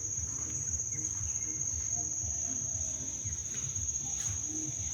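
Insects trilling in the rainforest: one steady, unbroken high-pitched drone, with a low uneven rumble underneath.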